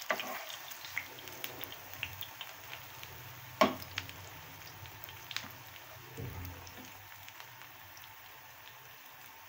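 Egg malpua batter frying in hot ghee in a pan, sizzling with many small crackling pops that die down slowly. A spatula strikes the pan once with a sharp knock about three and a half seconds in.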